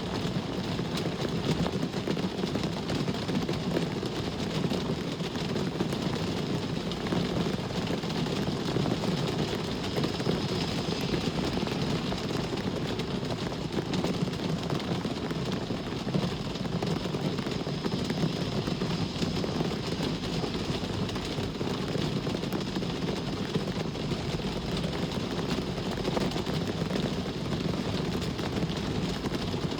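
Steady rain hiss over a constant low rumble of road traffic, with no single vehicle or impact standing out.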